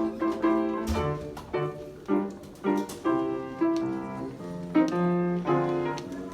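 Piano playing a jazz introduction of struck chords and melody notes, each note ringing on after it is struck.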